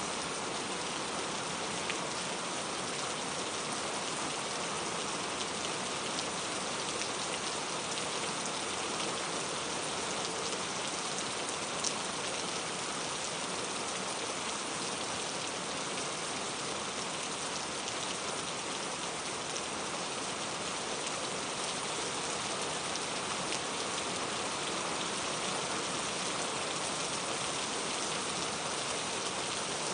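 Steady rain falling, an even hiss with faint scattered drop clicks.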